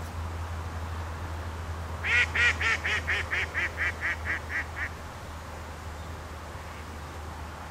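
A bird calling a quick series of about a dozen evenly spaced notes, about four a second, for roughly three seconds, fading toward the end.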